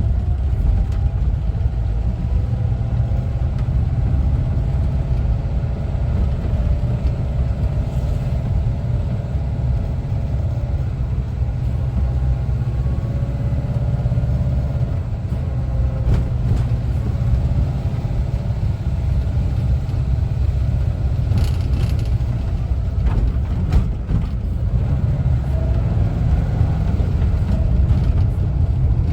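1974 Volkswagen Westfalia camper's air-cooled Type 4 flat-four engine running while driving, over a steady low road rumble; the engine's pitch drifts up and down as the revs change, with a few faint clicks around two-thirds of the way in.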